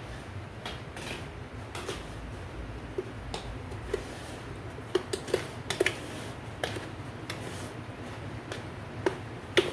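Kitchen utensils tapping and clicking against a dish. The clicks are sparse at first and come more often in the second half, over a low steady hum.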